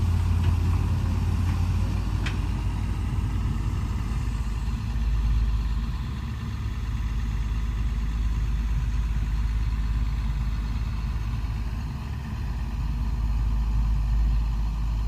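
Diesel engine of a Komatsu PC200 crawler excavator running steadily at low revs, its deep hum dropping a little lower about five seconds in. A brief sharp tick about two seconds in.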